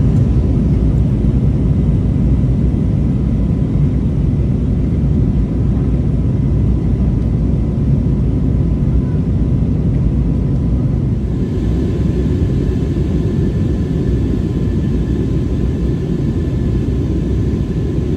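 Airbus A321neo cabin noise in flight: a steady, loud low rumble of engines and airflow, with faint steady tones above it.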